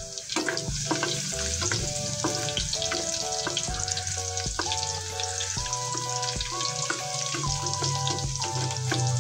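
Chopped garlic and onion sizzling and crackling in hot oil in an aluminium wok, stirred now and then with a wooden spatula. A melodic background tune plays throughout.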